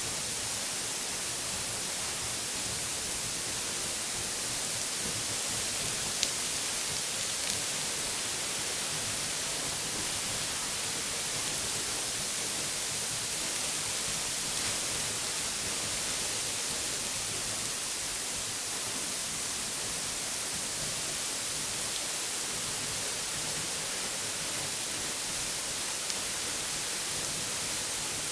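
Waterfall rushing in a steady, even hiss with no change throughout.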